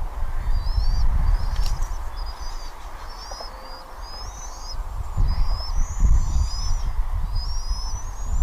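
Bald eagle calling: repeated high-pitched chittering phrases, each a quick run of piping notes, about one a second, over a low rumble.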